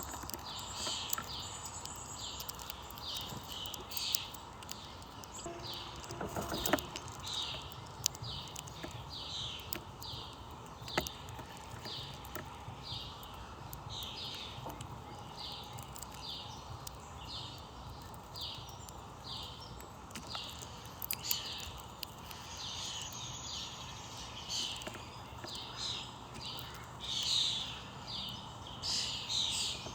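Birds chirping: short high calls repeating about twice a second, over a steady low background hum, with a few sharp clicks.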